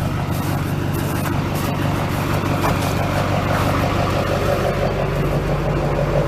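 The 6.6-litre Duramax turbo diesel V8 of a 2005 Chevy Silverado 2500 HD, idling steadily with a low, even hum.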